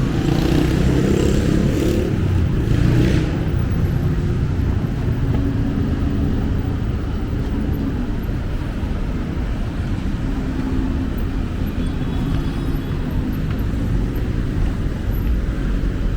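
Road traffic on a busy city street: a steady rumble of engines and tyres, with a louder vehicle going by over the first three seconds or so.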